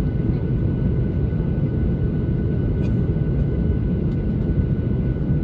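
Steady roar of cabin noise inside a Boeing 737-800 in flight, from its CFM56 engines and the airflow, with a faint steady high whine over it.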